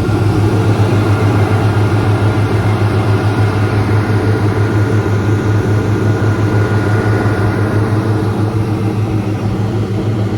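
Tour boat's engines running steadily under way, a loud continuous low drone with a constant hum.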